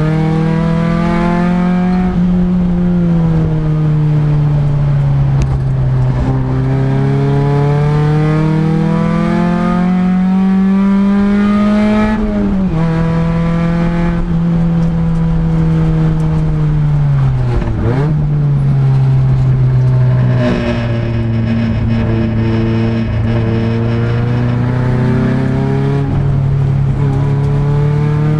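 Honda Integra race car's engine heard from inside its stripped cabin under hard driving. The note climbs steadily as the car pulls through a gear, then drops sharply at an upshift about halfway through. It dips briefly and falls lower again later on as the driver eases off behind another car.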